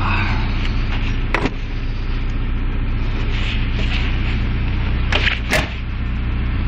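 Car engine running with a steady low hum, with a sharp click about a second and a half in and two more close together near the end.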